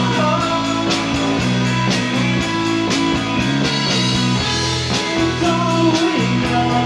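Rock band playing live: guitars, bass guitar and drum kit, with a steady beat and no vocals.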